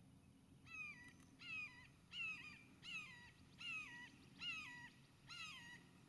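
A bird calling seven times in an even series, about one call every 0.8 seconds, each a short note that drops in pitch at the end.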